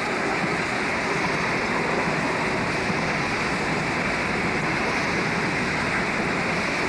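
Empty coal train passing close by, hauled by 81 class diesel locomotives: a steady rushing rumble of the locomotives and the empty coal hopper wagons rolling past.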